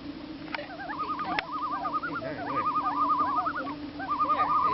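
Common loons giving their tremolo call, a rapid wavering laugh repeated several times with calls overlapping. A steady low hum runs underneath, and there are two short clicks early in the first second and a half.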